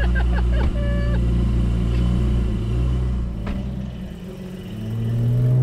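Porsche 718 GT4's naturally aspirated 4.0-litre flat-six, breathing through a SOUL aftermarket exhaust, running at a steady deep idle. After a cut about three and a half seconds in, it pulls away, its pitch rising steadily and growing louder near the end.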